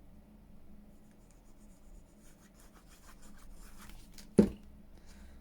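Faint pen scratching on paper in short strokes, with a single sharp knock about four seconds in.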